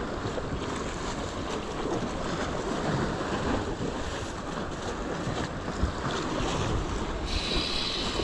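Ocean surf washing steadily, with wind buffeting the microphone. A faint high hiss comes in near the end.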